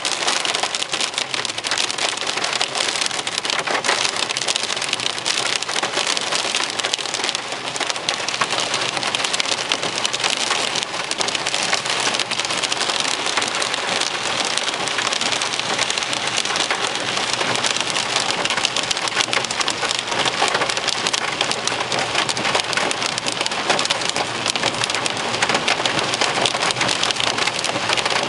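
Heavy rain pelting the car's roof and windscreen, heard from inside the moving car as a steady dense patter.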